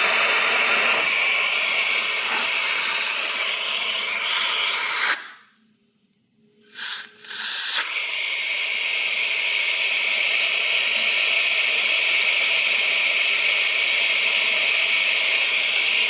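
Central vacuum running with air rushing through the hose during a working water lift test at the hose end. The rushing hiss cuts off suddenly about five seconds in, returns in two short spurts, then runs on steadily with a brighter, higher hiss.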